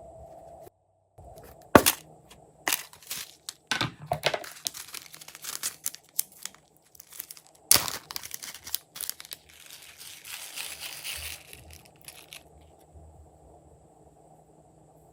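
Slime being worked by hand with add-ins mixed in: a run of crackles, pops and crinkles. The sharpest pops come about two seconds in and near eight seconds, and a denser crackle follows before it goes quiet near the end.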